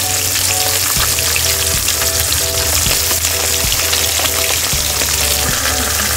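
Fish heads sizzling steadily as they fry in hot oil in a wok, with a spatula knocking and scraping now and then as they are turned.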